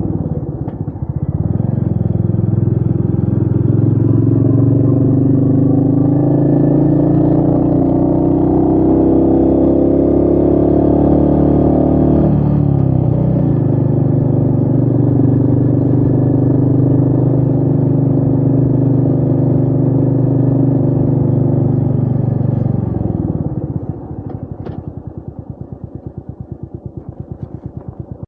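Royal Enfield Meteor 350's single-cylinder four-stroke engine pulling hard, its pitch rising steadily for about ten seconds, then dropping sharply at an upshift. It holds a steady note, and about five seconds from the end the throttle closes and it falls to a quieter, even thudding beat.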